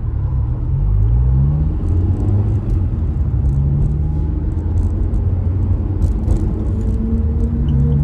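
Honda S2000 Type S's 2.2-litre four-cylinder VTEC engine with a Mugen muffler, heard from inside the cabin while driving under acceleration, over low road rumble. The engine note rises, drops back about two seconds in as a gear is changed, then climbs slowly again.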